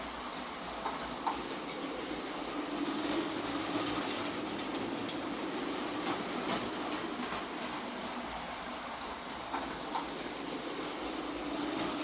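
Motorised LEGO trains running along plastic track: a steady motor whir and wheel rumble, with a couple of short clicks about a second in and again near the end as wheels pass track joints.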